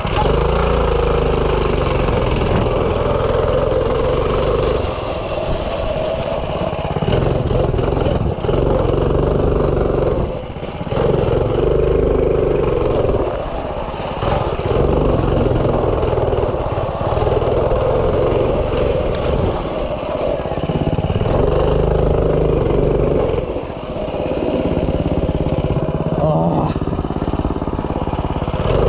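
Minibike's small single-cylinder engine running hard under throttle, dropping off briefly several times and picking back up.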